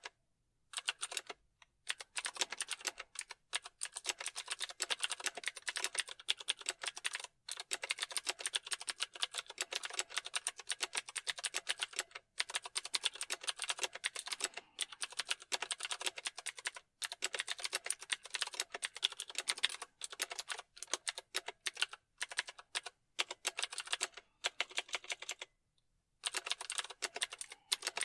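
Typing on a computer keyboard: fast runs of key clicks broken by short pauses every few seconds, with one longer pause just before the end.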